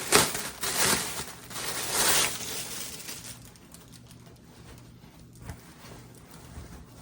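Packaging being opened by hand, crinkling and tearing in three loud rushes over the first two seconds, then settling to softer rustling.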